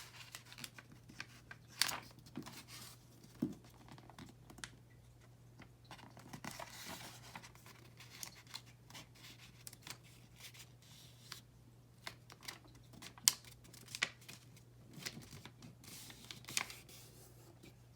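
Paper being folded and creased by hand: scattered short crinkles, rustles and sharp creasing sounds, one sharper snap about 13 seconds in, over a faint steady hum.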